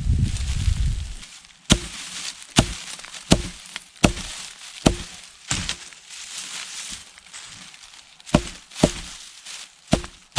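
A bundle of stiff dry grass being handled and bound tightly with cord, giving about nine sharp, irregular snaps and clicks. There is a low wind rumble on the microphone in the first second.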